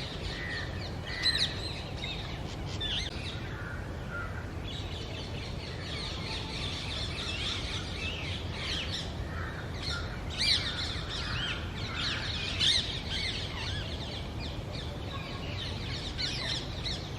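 Rose-ringed parakeets calling: a continual run of short chirps and squawks, with louder calls about a second in and again around ten and twelve seconds in, over a steady low rumble.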